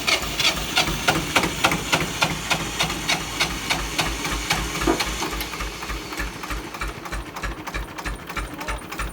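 The starter cranks the 18 hp JT engine of a 1980s Jiangxi tractor, giving an even rhythm of about three to four strokes a second. The engine does not catch, and the cranking slowly gets quieter.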